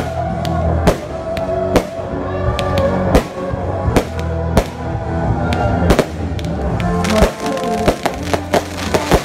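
Fireworks display set to music: music plays steadily while about nine sharp bangs of firework cakes firing and shells bursting overhead come roughly a second apart, with a flurry of small crackles near the end.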